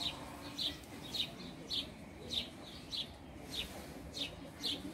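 Birds chirping, one short high chirp repeated steadily a little under twice a second.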